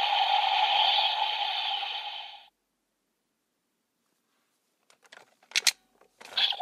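Electronic sound effect from a DX Grease Blizzard Knuckle toy, a sustained hissing, ringing noise that fades out about two and a half seconds in. After a silence come a few sharp clicks, and the toy's sound starts again near the end.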